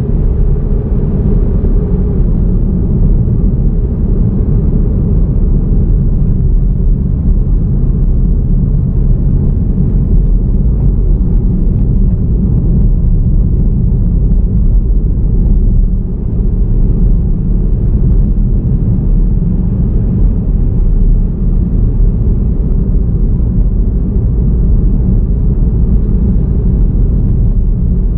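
Steady low rumble of a car driving along at a constant pace: tyre, engine and wind noise with no distinct events.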